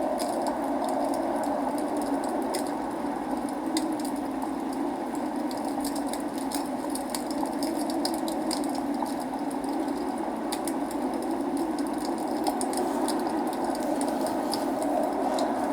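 Log fire crackling in a fireplace, with irregular sharp pops over a steady rushing of rain.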